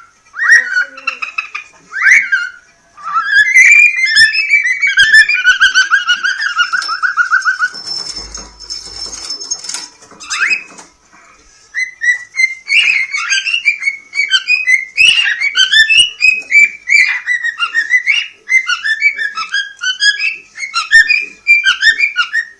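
Cockatiel singing: rapid whistled chirps and warbles with a fast trill, a short lull just after the middle, then a long unbroken run of quick chirping.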